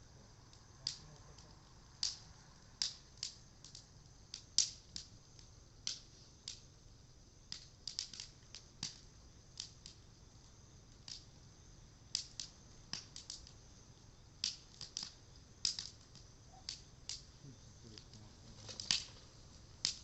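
Bonfire of sugi (Japanese cedar) wood crackling: irregular sharp pops and snaps, one or two a second, over a faint low background.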